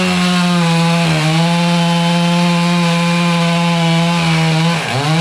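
Chainsaw running at high revs while cutting through melaleuca wood, cutting easily like cutting through butter. Its engine note sags briefly under load about a second in and again near the end, then picks back up.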